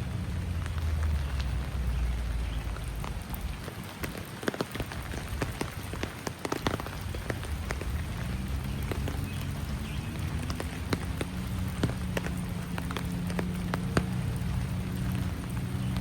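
Rain falling, with many separate drops ticking sharply and irregularly over a steady patter. A low steady hum runs underneath.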